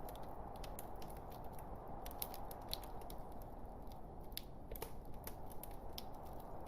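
Log fire burning in a fireplace: a steady low rush of flames with many small, sharp crackles and pops, a few of them louder.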